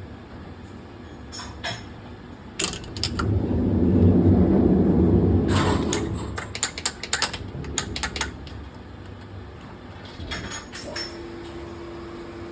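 Metal parts and tools clinking and knocking in short clusters during hand work on a marine diesel engine's fuel pump, over a steady machinery drone. A louder low rumble swells and fades in the middle, and a steady hum starts near the end.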